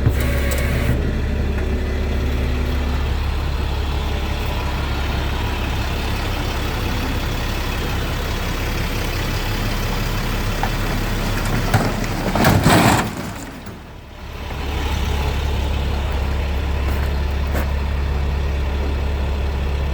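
Forklift engine running steadily with a low hum. About two-thirds of the way through it briefly gets louder, then drops away for a moment before settling back.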